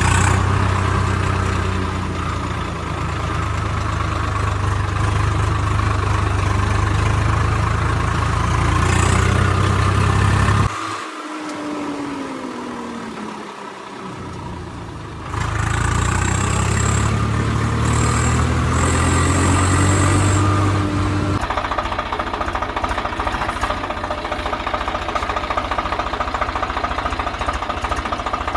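Tractor diesel engine running steadily. About eleven seconds in its sound drops away for roughly four seconds, with a falling pitch, then picks up again. In the last seven seconds it takes on a rougher, evenly pulsing sound.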